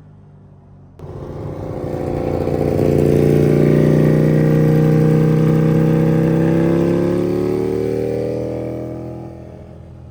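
Ducati Panigale V4 R's V4 engine through a Termignoni four-outlet exhaust: idling, then about a second in the throttle opens sharply and the revs are held up for several seconds before easing back down toward idle near the end.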